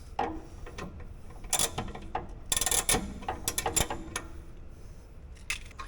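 Ratchet handle clicking in several short runs as the brake caliper's slide-pin bolt is done up.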